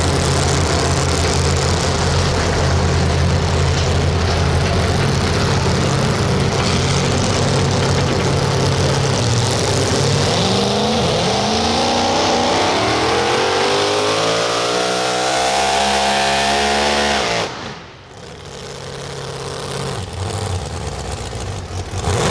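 Super modified four-wheel-drive pulling truck's engine running hard under load; its pitch climbs steadily over several seconds, then the engine cuts off abruptly near the end. The driver shut it down because something didn't sound right.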